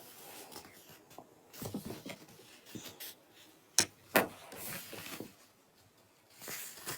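Soft rustling and scattered clicks from objects being handled, with two sharp clicks a little before the middle.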